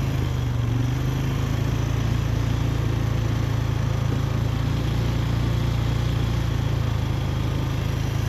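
ATV (four-wheeler) engine running steadily at an even, low pitch, with no revving.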